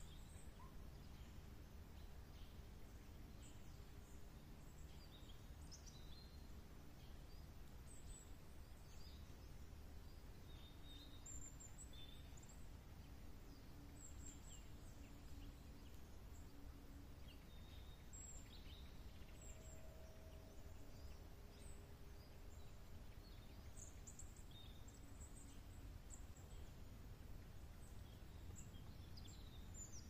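Faint, scattered bird chirps, short high calls every second or two, over a low steady background rumble.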